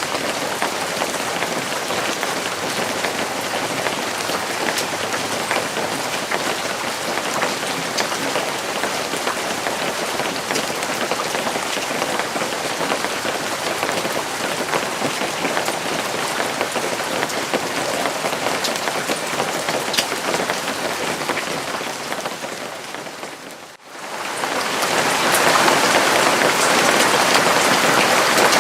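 Steady rain falling, with scattered individual drops ticking. About 24 seconds in it dips away briefly and comes back louder and heavier.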